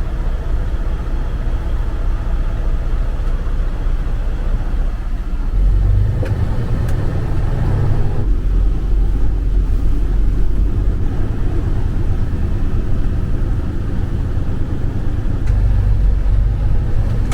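Semi-truck's diesel engine idling as a steady low rumble, which grows louder about six seconds in, with a few faint clicks over it.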